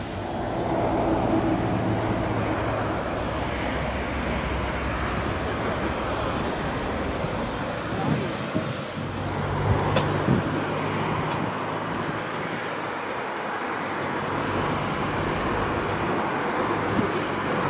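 Steady engine rumble and road-traffic-like noise, with a low hum that fades about halfway through and a few short clicks around the middle.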